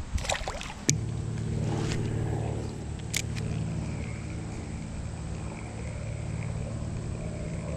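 A few sharp clicks, then a motor engine droning steadily at an even pitch, starting about a second in.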